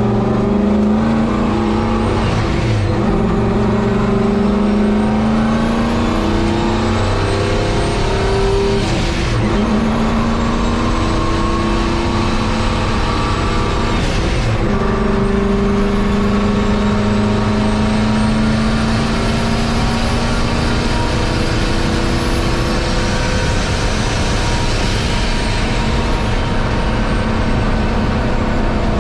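Turbocharged race-truck engine running hard at speed, heard from inside the cab, with a high whine rising and falling above it. The engine note shifts in pitch and breaks briefly about two and a half, nine and fourteen and a half seconds in.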